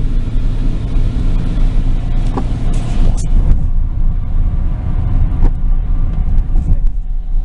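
Steady low rumble of a car's engine and tyres on the road, heard from inside the cabin while driving, with a click about three seconds in.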